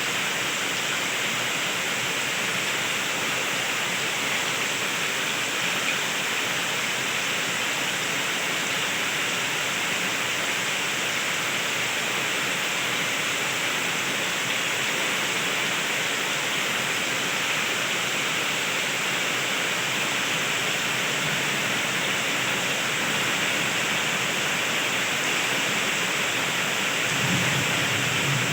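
Heavy rain falling steadily, with a low rumble of thunder starting to build near the end.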